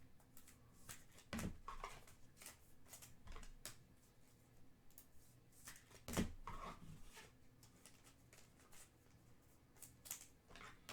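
Faint handling of trading cards: scattered soft clicks and slides as cards are flipped through a stack, with a few slightly louder ones about one and a half and six seconds in.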